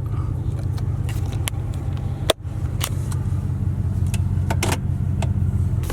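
Pickup truck engine running with a steady low rumble, with a few light clicks and knocks over it.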